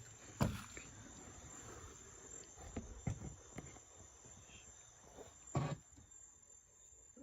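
Steady high-pitched insect drone, with a few scattered thumps, the loudest about half a second in and about two-thirds of the way through.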